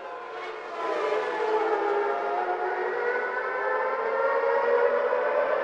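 1991 Formula One race car engines at high revs, their pitch dipping briefly and then climbing steadily and getting louder about a second in, as the cars accelerate.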